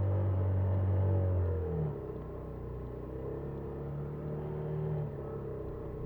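Small motorcycle engine and road noise picked up by a dashcam on a Honda Super Cub 50. The engine note drops about two seconds in, then rises and falls gently as the speed changes.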